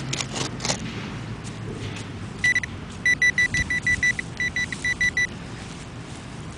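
A few scrapes of digging in dirt, then a metal detector's high electronic beep: one short beep, then two runs of rapid pulsing beeps, about seven a second, as it homes in on a buried coin target.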